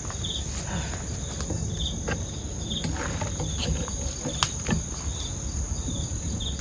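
Insects such as crickets calling: a steady high-pitched whine with short chirps repeating about once a second, over a low rumble and scattered ticks.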